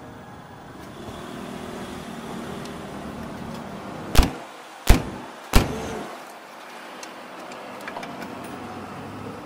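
Three sharp knocks, about two-thirds of a second apart, near the middle, over a steady low background rumble.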